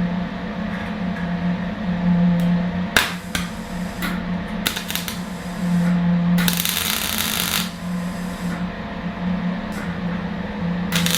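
Metalworking power tool working steel wire: a steady hum starts abruptly, with a few sharp clicks and bursts of harsh hiss about six seconds in and near the end.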